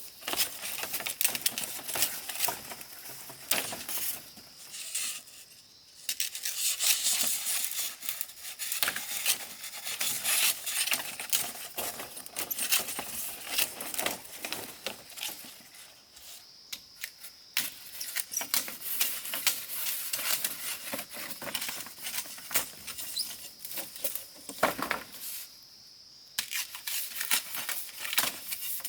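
Dense, irregular clicking and crackling, like hands working dry material, over a faint steady high-pitched tone.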